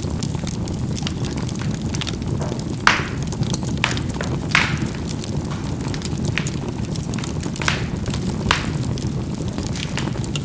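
Charcoal burning in a fireplace: a steady low rushing of the fire with irregular sharp pops and crackles as the coals burst. The loudest pops come about three and four and a half seconds in.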